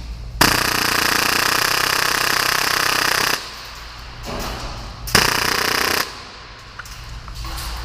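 Full-auto Tokyo Marui Hi-Capa gas blowback airsoft pistol, modified to about 30 rounds per second, firing a sustained burst of about three seconds. After a short pause it fires a second burst of under a second.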